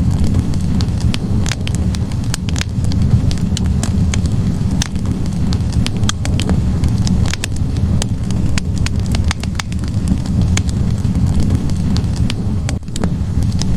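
Wood fire burning in a fireplace, crackling with frequent sharp, irregular pops from the burning logs over a steady low rumble.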